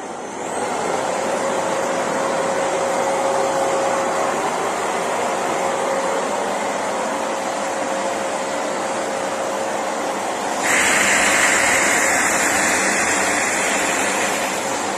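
Philips Series 3000 Performer Compact 900 W bagged vacuum cleaner running with a steady motor whine and airflow rush, shown at maximum power. It comes up to speed about half a second in, and about two-thirds of the way through its sound steps up, louder and more hissy.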